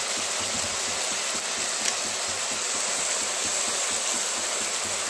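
Chicken pieces frying in hot oil in a wok, a steady sizzle, with one short click about two seconds in.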